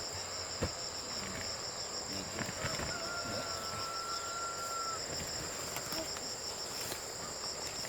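Steady shrill chorus of crickets or similar insects, a high fast-pulsing trill that never lets up. A faint thin whistle sounds for about two seconds in the middle, over a few soft rustles and knocks.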